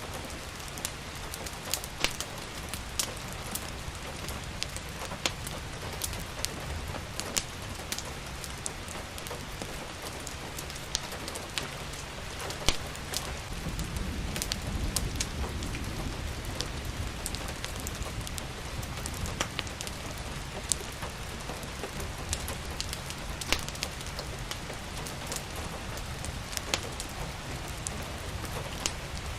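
Steady rain mixed with the irregular sharp pops and crackles of a wood fire, over a low rumble that swells a little about halfway through.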